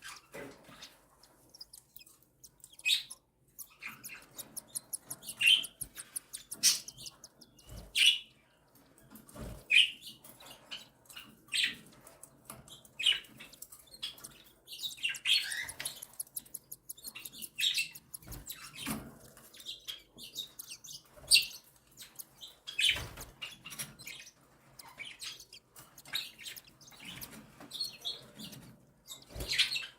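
Cockatiel chicks giving rapid, high, repeated begging chirps while being fed by their mother, with a few dull knocks among them.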